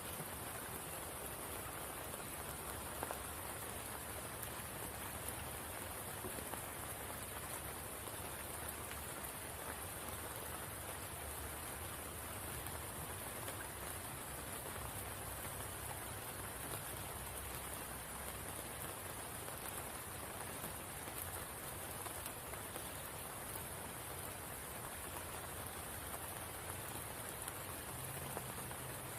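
Steady rain falling on a spring pool, an even hiss with a few faint single drop ticks.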